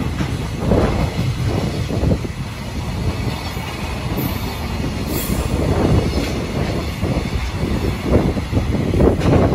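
A freight train's container flat wagons running past at speed: a steady low rumble with the knocking clatter of wheelsets over rail joints, coming in close pairs near the end, and a couple of brief faint high squeaks about four and five seconds in.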